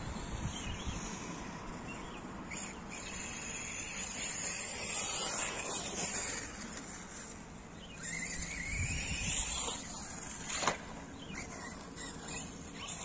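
Electric RC car's motor and pinion gear whining, the pitch sweeping up and down as the car speeds up and slows down, with a sharp knock about ten seconds in.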